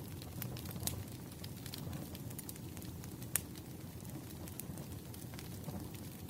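Firewood burning with irregular sharp crackles and pops over a steady low rumble.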